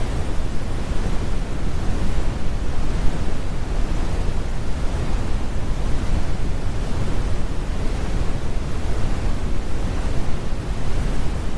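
Synthetic brown noise: a steady, deep rumbling hiss with most of its weight in the low end and the high frequencies rolled off.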